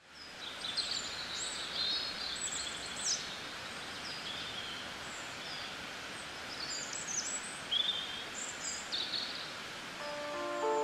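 Small birds chirping and singing in short, scattered phrases over a steady outdoor hiss. Plucked acoustic guitar music comes in near the end.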